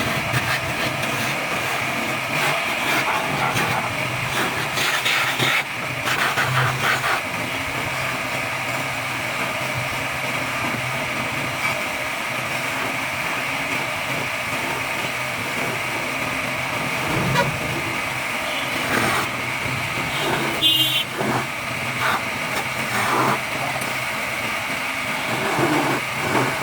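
A woodworking machine running steadily while table legs are shaped, with short irregular scraping and knocking sounds over its noise.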